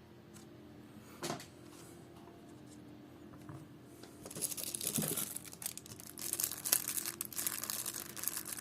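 Crinkling and tearing of thin plastic packaging, starting about halfway through and going on in a dense crackle, after a single light click near the start.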